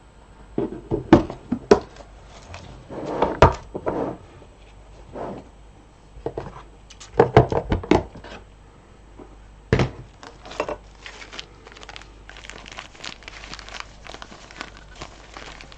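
Beads and their storage containers being handled: irregular knocks and clicks, some in quick clusters, then a run of many small light ticks in the second half.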